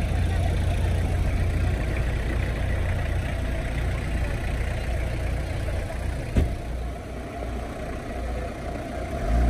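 Peugeot 205 rally cars idling, a steady low engine rumble, with one sharp knock a little past six seconds in.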